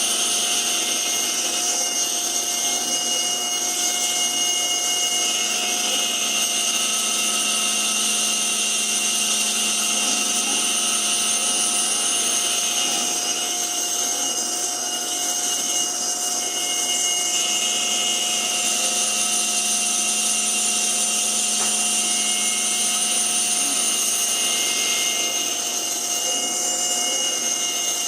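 Small CNC mill's spindle running at a steady high whine while its cutter mills a wooden ring insert, the cutting sound swelling and easing slightly every several seconds.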